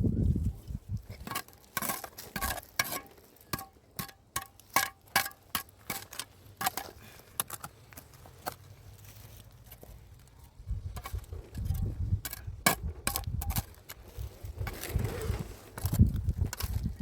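A quick, irregular series of light clinks with a short ring, hard objects knocking together, for several seconds. It gives way to a low rumbling noise near the middle.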